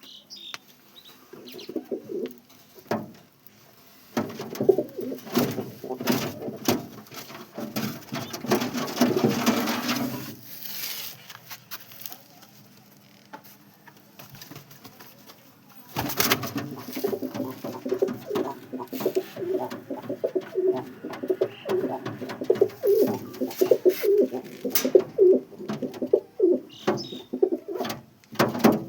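Domestic pigeons cooing, a dense run of low throaty coos that drops away for several seconds in the middle and then resumes, with scattered sharp clicks and taps among them.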